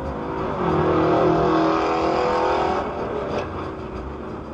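Vehicle engine and road noise as picked up by a dash cam, swelling louder with a steady pitched drone for about two seconds, then easing back.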